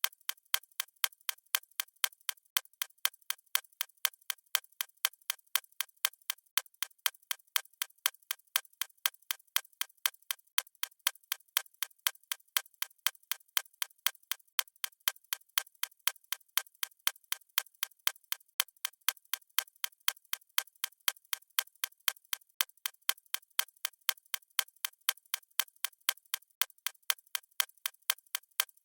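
Clock ticking in a steady, even rhythm of sharp, bright ticks.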